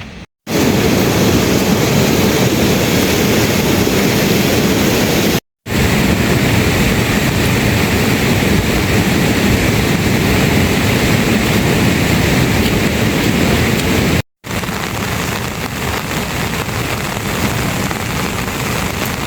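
Heavy rain, a loud steady hiss and roar, broken by three sudden brief silences where recordings are spliced; a little quieter after the last break.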